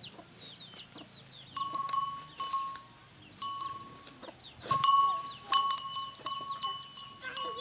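Farmyard animal sounds: many small high chirps throughout, with repeated short, clear ringing calls, the loudest about five seconds in.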